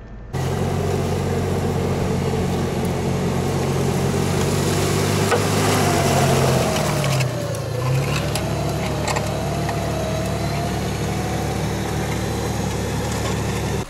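An off-road SUV's engine running hard under load while the stuck vehicle is pulled out of mud on a tow strap. Its note dips about seven seconds in, then picks back up.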